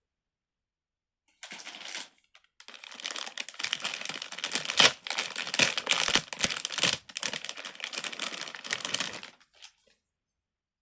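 Silicone pop-it fidget toy having its bubbles pressed and popped in quick succession: a dense run of soft clicks and pops that starts about a second in, pauses briefly, then goes on for about seven seconds.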